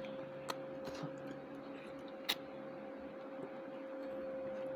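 A steady, faint single-pitched hum, broken by two sharp clicks: one about half a second in and another a little after two seconds.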